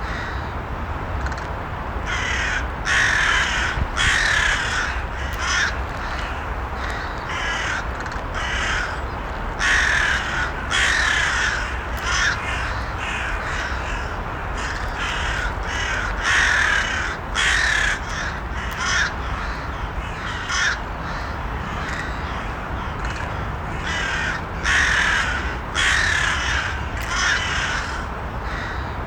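Crows cawing, short harsh caws coming in quick runs of two to four, one run every second or two, over a steady low background noise.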